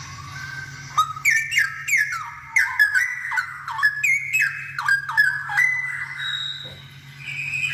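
Straw-headed bulbul (cucak rowo) in full song: a fast run of short whistled notes that slide up and down, starting about a second in, easing into softer held notes with a brief higher note near the end.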